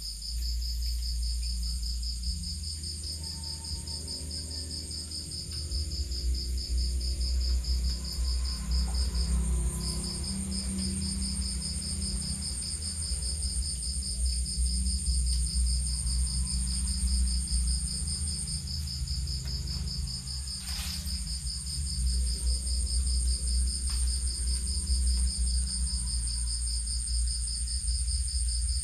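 Night insect chorus of crickets: one chirps in a fast, even pulse, pausing briefly about ten seconds in, while others trill steadily higher up. A low rumble runs underneath, and there is one short sharp sound about twenty seconds in.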